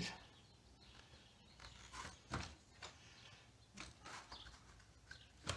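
A few faint, scattered knocks and clicks of a scooter battery being handled and set into its battery box, with its vent hose being fitted.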